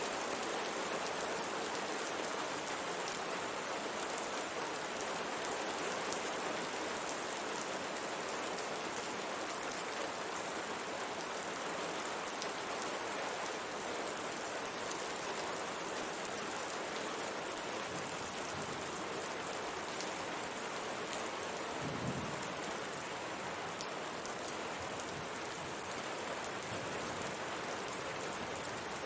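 Steady rain falling on window glass, a continuous patter of drops with fine ticks, and one brief low thump a little past two-thirds of the way through.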